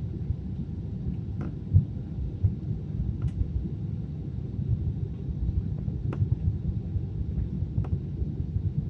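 Airliner cabin noise: the steady low rumble of the engines and airflow heard from inside the cabin, with a few faint clicks.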